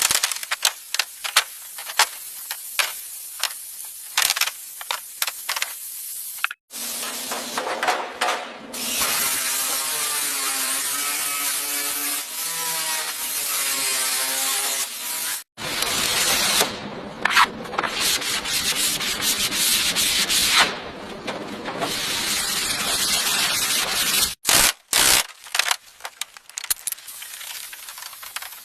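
A string of short, cut-together car bodywork sounds: rubbing and sanding strokes on the panels, with a stretch of a wavering pitched whine in the middle.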